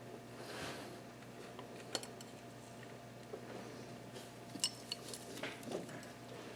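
Faint metallic clicks and clinks of a steel bracket and bolts being handled and fitted on an engine: a single click about two seconds in and several more near the end, over a low steady hum.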